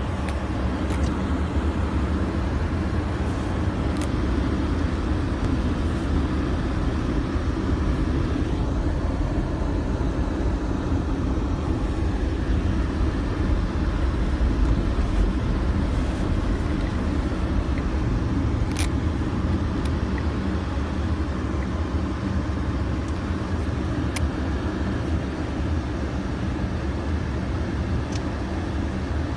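Car driving on a snowy road: a steady low rumble of engine and tyres, with a few faint ticks.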